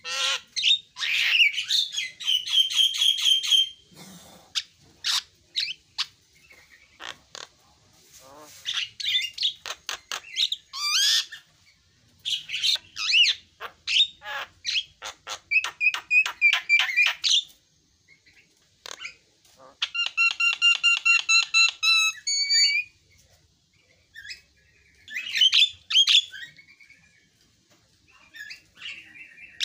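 Javan myna (jalak kebo) singing: a varied song of fast runs of repeated whistled notes mixed with harsh clicks, delivered in phrases with short pauses between them.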